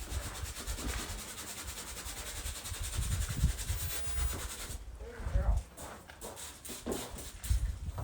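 A steady hiss for about five seconds, then stops, followed by low, irregular rumbles and thumps.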